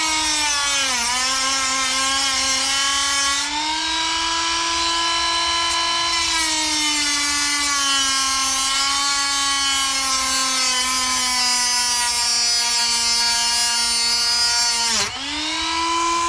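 Dremel rotary tool with a cut-off wheel cutting through an RC car motor's metal shaft: a steady high whine over a grinding hiss, its pitch sagging as the wheel bites into the shaft, sharply about a second in and again near the end.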